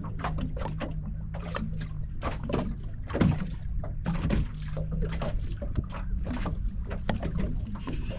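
Small waves slapping irregularly against the hull of a small fishing skiff, over a low steady hum.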